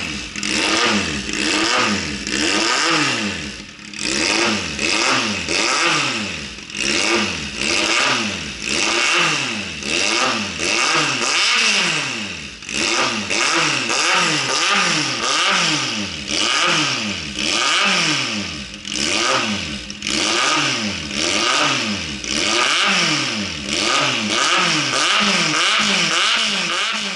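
Kawasaki Z800's inline-four engine revved over and over through a custom Vance & Hines-style exhaust, the pitch rising and falling with each throttle blip about once a second.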